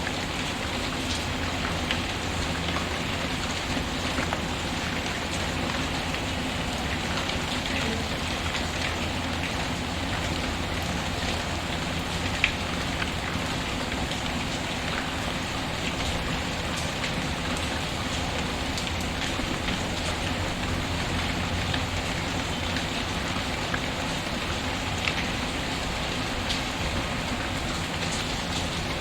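Steady rain falling, mixed with the occasional small pops and crackles of a wood fire in a fireplace; one sharper pop about twelve seconds in.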